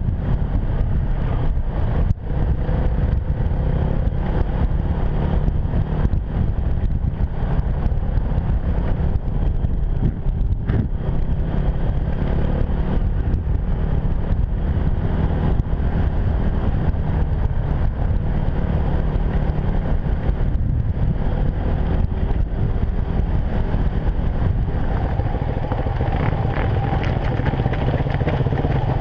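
Enduro motorcycle engine running steadily while riding.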